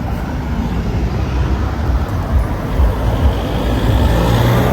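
Road traffic going by, a steady rush of vehicle noise that builds, with a motor vehicle's engine hum getting louder near the end.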